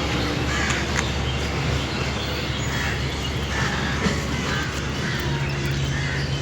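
Outdoor ambience: a steady low rumble like distant traffic, with short bird calls scattered over it.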